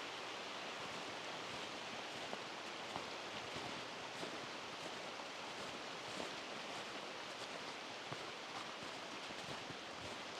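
A steady, even outdoor rushing noise, with a few faint scattered ticks.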